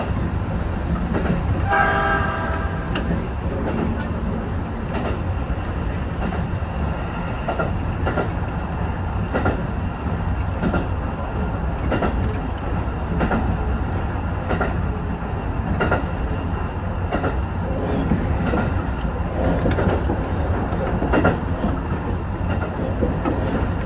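Hybrid diesel railcar (JR HB-E210 series) running at speed, heard from inside the front car: a steady low rumble with the wheels clicking over rail joints about once a second. A short horn blast sounds about two seconds in.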